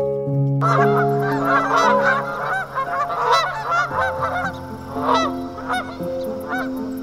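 Geese honking over and over. The calls crowd together in the first few seconds and thin out toward the end, over soft sustained background music.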